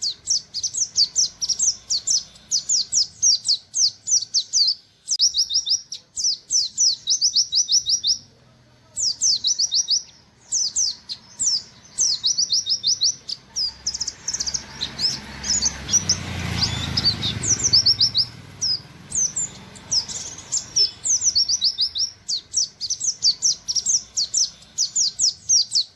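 Pleci (buxtoni white-eye) singing its rapid 'nembak' song: fast runs of high, sharply falling 'wit wit' notes, several a second, in phrases of a second or two with short pauses between. A rushing noise with a low rumble swells up about 14 seconds in and fades by about 19 seconds.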